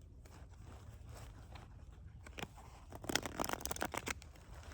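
A deck of cards being shuffled by hand: scattered soft clicks, then about three seconds in a quick run of rapid card flicks lasting about a second.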